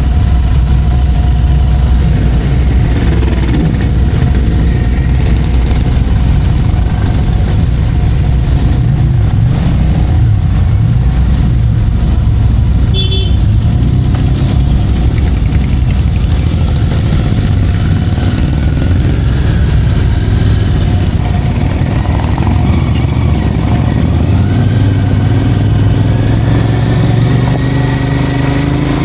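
Motorcycle engine running steadily under way, its note climbing in pitch over the last few seconds as it speeds up.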